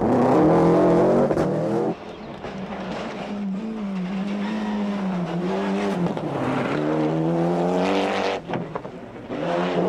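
Rally car engine revving hard, its pitch repeatedly climbing and dropping with gear changes and lifts, with an abrupt change in sound about two seconds in.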